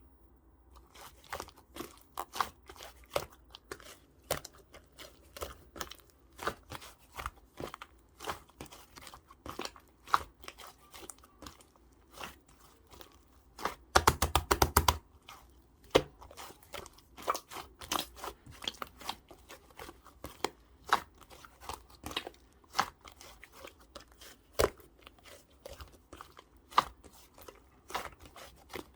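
Purple clay-mixed slime being pressed and stretched by hand, giving a steady run of sticky clicks and small crackling pops. About halfway there is a brief fast burst of louder pops.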